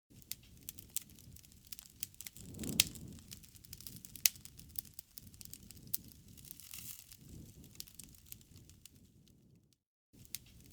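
Campfire crackling: irregular sharp pops and snaps of burning wood over a soft low rumble, with a brief break to silence near the end.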